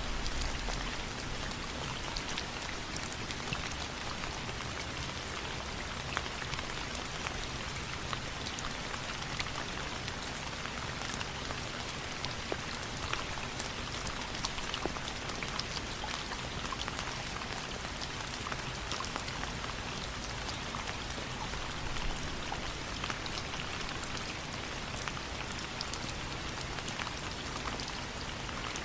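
Steady rain falling, mixed with the scattered sharp crackles and pops of a wood fire burning in a fireplace.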